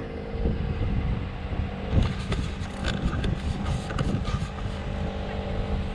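Vehicle engine running steadily. A series of short clicks and knocks comes in the middle.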